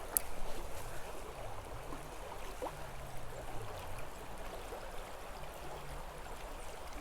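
Small creek flowing over rocks: a steady babble of running water.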